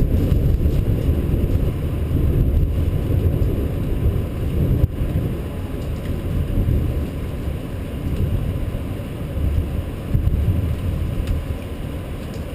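Storm wind buffeting the microphone: a low, uneven rumble that swells and eases in gusts.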